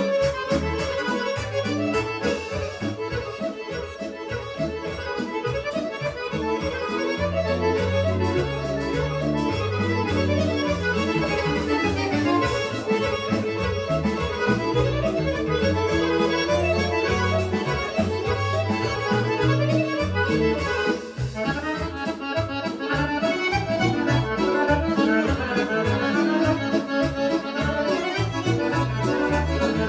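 Fast Serbian kolo dance music led by accordion over a steady bass beat, with a band playing along.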